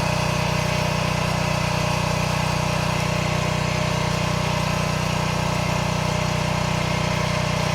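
A small engine running at a steady idle, with an even, unchanging pitch.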